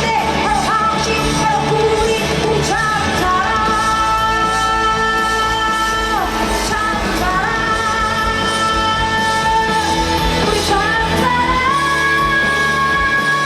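Live pop performance through a PA: a female singer holds long, high notes over a full band backing.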